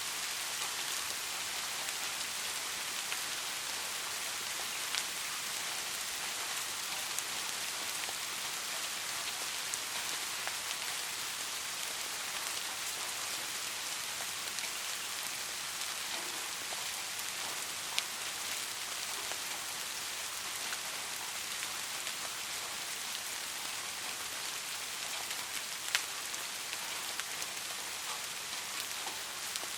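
Soft steady rain falling, an even hiss of many small drops, with a few single louder drop hits standing out now and then.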